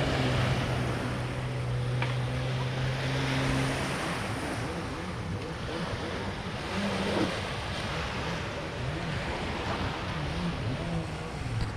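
Outdoor background noise with a steady low hum for about the first four seconds, after which the hum weakens and wavers in pitch.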